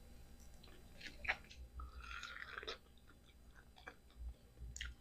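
A person biting into and chewing peeled mango up close: a sharp crisp bite about a second in, then a stretch of chewing and smaller mouth clicks.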